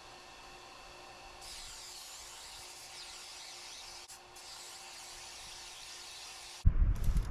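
Belt sander running with a steady motor hum. About a second and a half in, a hissing grind comes in as sheet-steel pieces are pressed against the abrasive belt. Near the end a sudden loud low rumble with knocks takes over.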